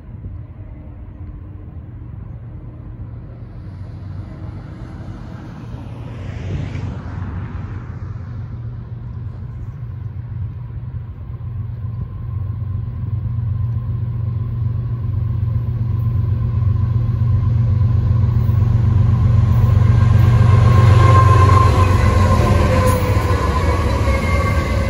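Three GE diesel-electric freight locomotives (an ES44C4, a Dash 9-44CW and a C44ACCTE) leading an intermodal train approach and pass at speed. Their engine rumble grows steadily louder, peaking as the locomotives go by near the end.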